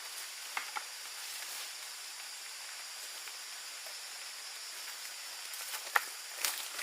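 A steady high-pitched hiss throughout, with a few short sharp clicks near the start and about six seconds in.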